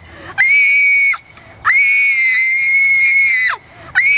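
A woman screaming in acted terror on cue for a horror scene: three loud, high-pitched screams, the middle one held for about two seconds.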